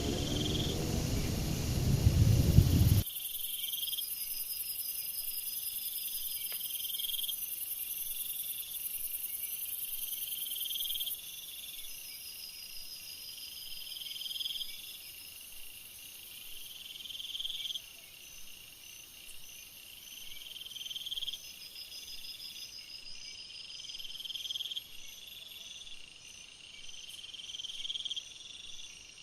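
A loud rushing noise for the first three seconds cuts off abruptly, leaving insects calling: a short high call repeating about every one and a half to two seconds over steady higher trilling.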